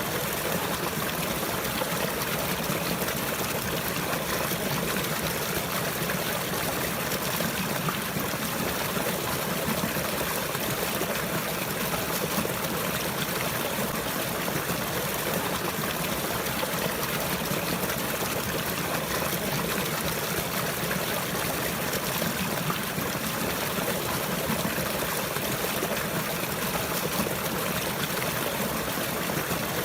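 Running water of a stream, trickling steadily without a break.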